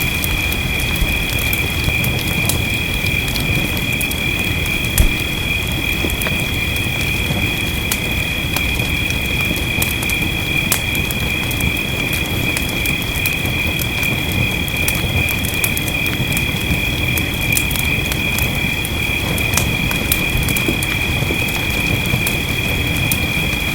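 Wood fire crackling over steady rain: scattered sharp crackles throughout, with one louder pop about five seconds in. A steady high-pitched drone runs underneath.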